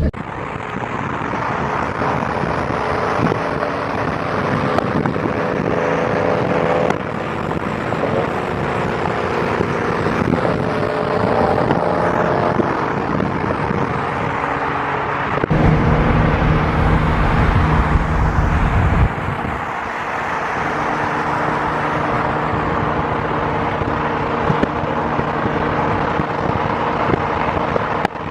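Car engines and road noise while driving, with a louder, deeper engine rumble for a few seconds past the middle.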